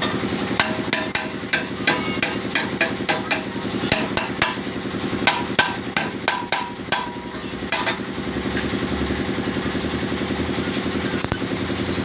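Hammer blows on metal, about two or three a second, over a steady mechanical hum. The hammering stops about two-thirds of the way through, leaving the hum running on.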